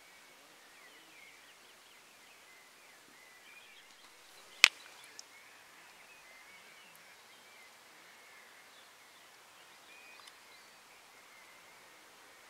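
Faint distant birdsong over a quiet outdoor background, broken by one sharp, loud click a little under five seconds in and a smaller one just after.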